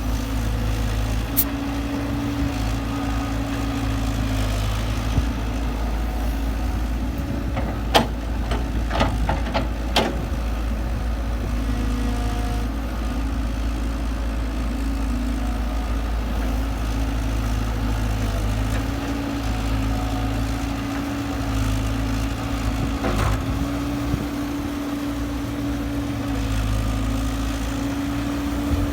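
Kobelco SK120-5 Super excavator's diesel engine running steadily while it digs and loads soil, with a hum that comes and goes as the hydraulics work. A few sharp knocks about eight to ten seconds in.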